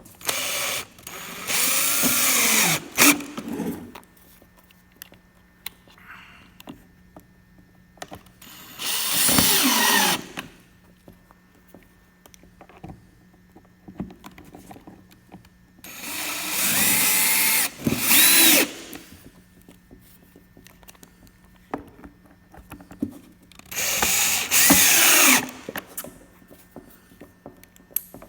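Power drill driving small screws that hold the air filter's screen, in four short runs, each spinning up and winding down.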